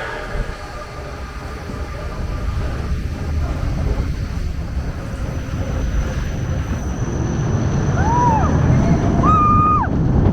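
Roller coaster train running along the track, a rumble that grows steadily louder, with two short high squeals near the end.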